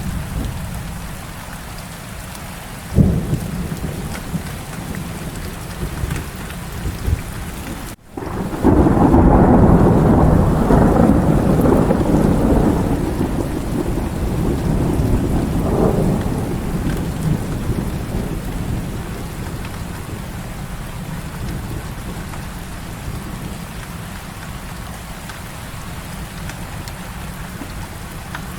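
Heavy rain falling steadily, with a single sharp knock about three seconds in. About eight seconds in, after a momentary drop-out, a loud rolling thunderclap rumbles and slowly dies away over some ten seconds.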